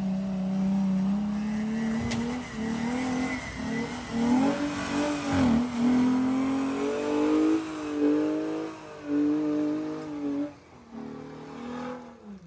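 Jeep engine revving under load on an off-road trail, its pitch climbing and dipping again and again, then easing off about ten seconds in.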